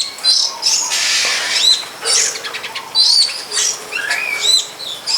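Long-tailed shrike (cendet) singing a rapid, varied song of quick arching high chirps, with a harsh raspy note about a second in.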